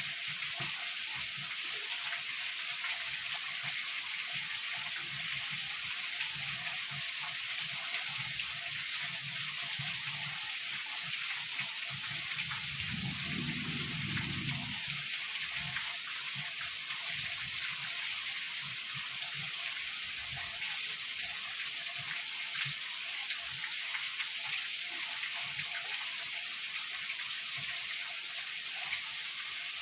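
Heavy rain falling steadily, a dense even hiss, with a brief low rumble of thunder about halfway through.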